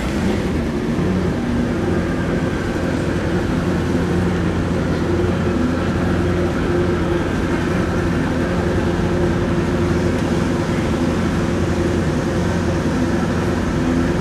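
Pro Xtreme drag-racing motorcycle engine idling steadily, a constant low note with no revving.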